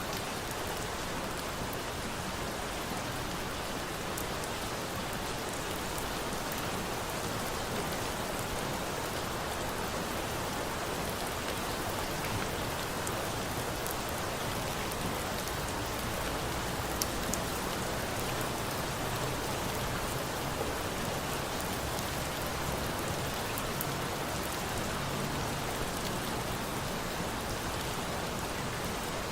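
Steady rain falling, with a few sharp pops now and then from a crackling campfire, the clearest about halfway through.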